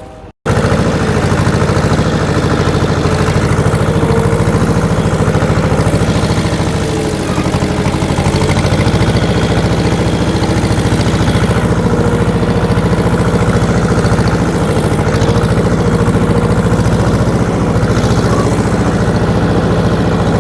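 A motor vehicle's engine running steadily and loudly, starting suddenly about half a second in after a brief gap.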